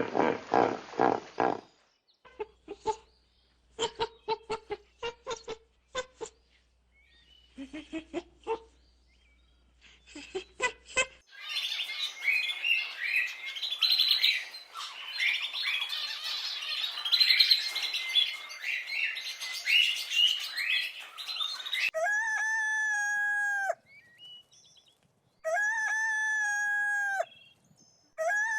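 A series of different animal calls, one after another: a growl dying away at the start, a run of sharp clicks and short calls, about ten seconds of dense, high chirping, then three long, level calls, each falling off at the end.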